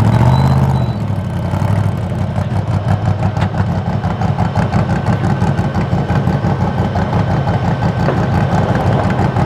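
Race truck engine idling with a steady, rapid pulse, after a louder burst of engine noise in the first second.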